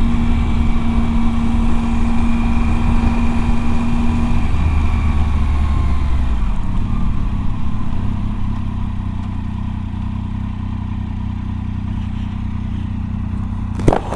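Motorcycle engine running at road speed under heavy wind noise. About halfway through, the engine note falls away and the sound gets quieter as the bike slows. There is a sharp click just before the end.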